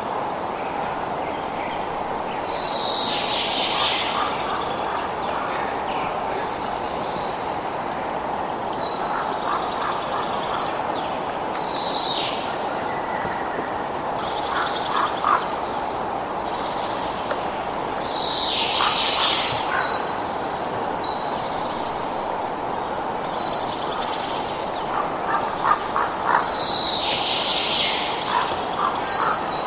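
Birds calling over a steady rushing background: every few seconds come high downward-sweeping calls and short whistles, with bursts of quick, clicky lower calls near the end.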